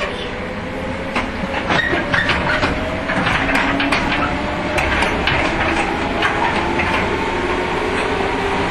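JR 115-series electric multiple unit accelerating, heard from inside the train: the traction motors' hum rises steadily in pitch, dropping back and climbing again a couple of times, over loud clanks and knocks from the running gear and couplings that are thickest in the first half.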